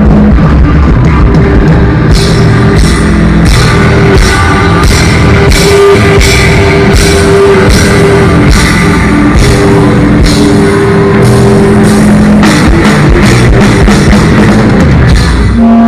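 Rock band playing loud, distorted guitar over a drum kit, with the drums and cymbals coming in on a steady beat about two seconds in.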